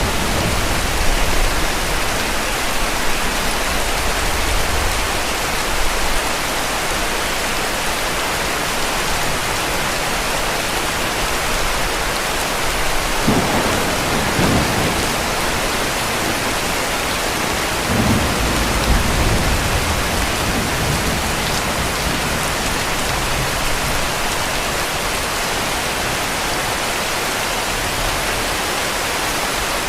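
Heavy rain falling steadily, with low rumbles of distant thunder rolling in near the start and again about halfway through.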